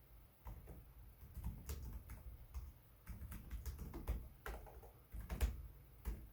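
Typing on a Lenovo Legion 5 Pro laptop keyboard: quick, irregular runs of key clicks with short pauses between them, the loudest keystroke about five and a half seconds in.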